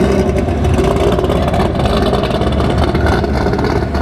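Car engine running steadily, with a constant low hum under a wash of noise.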